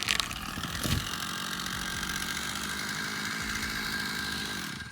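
Chainsaw engine running steadily under power, falling away just before the end.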